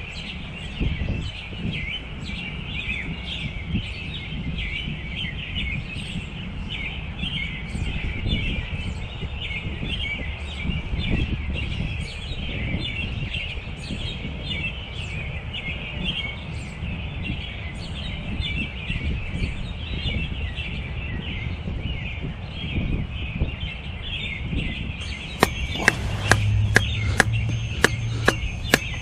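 Many small birds chirping and chattering continuously. Near the end, a quick series of about eight sharp knocks or clicks.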